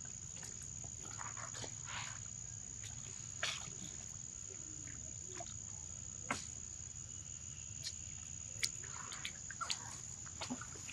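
A steady high-pitched insect drone with scattered faint clicks and a few short, faint animal calls.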